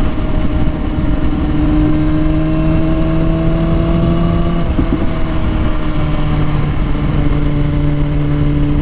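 Motorcycle engine running at a steady cruise, its pitch holding nearly level and easing slowly, with a brief break in the tone about five seconds in, over a constant low rushing noise.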